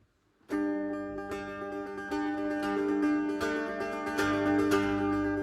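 Folk band playing the instrumental opening of a traditional Scottish tune live. Plucked string instruments come in suddenly about half a second in, and a low bass note joins about four seconds in.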